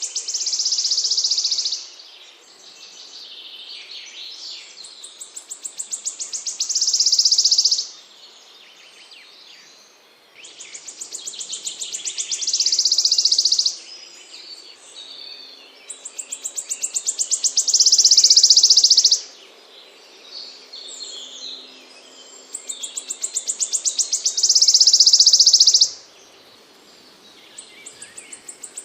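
A small songbird's song repeated about every six seconds, five times: each phrase is a run of rapid high notes that quickens and grows louder into a dense trill lasting a second or two, then stops abruptly.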